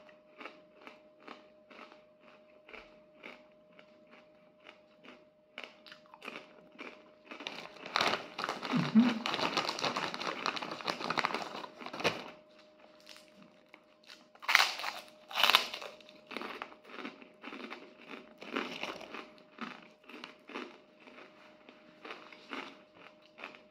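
Crunchy puffed crackers being bitten and chewed close to the microphone, crunches about twice a second. About eight seconds in, a plastic bag crinkles loudly for some four seconds as a hand rummages in it, then the chewing goes on. A faint steady hum sits underneath.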